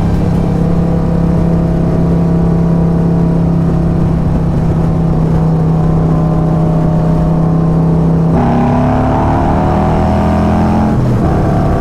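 Harley-Davidson V-twin motorcycle engine running steadily under way, then rising in pitch as it accelerates about eight seconds in, dropping back near the end.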